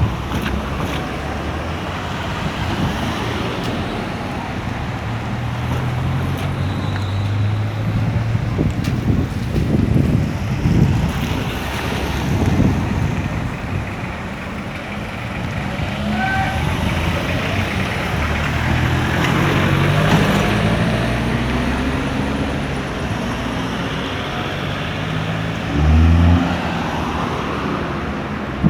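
City street traffic: motor vehicles passing with their engines running, one speeding up with a rising engine note about two-thirds of the way through, and a short loud low rumble near the end.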